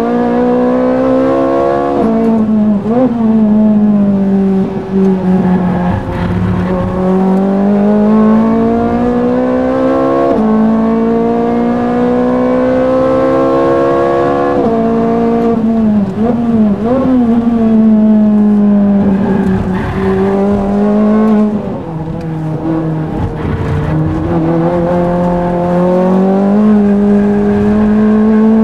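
Ferrari race car engine heard from inside the cockpit under hard acceleration. The pitch climbs through each gear and drops sharply at every upshift, and a few times it winds down with quick blips as the driver brakes and downshifts for a corner.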